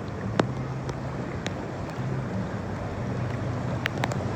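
Steady rain hissing onto an outdoor spa pool's water, with scattered sharp taps of drops landing close by and a steady low hum underneath.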